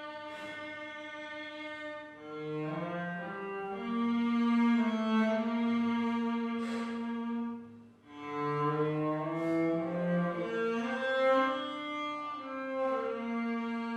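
Cello playing a slow hymn tune in long, sustained bowed notes, with a brief break between phrases about eight seconds in.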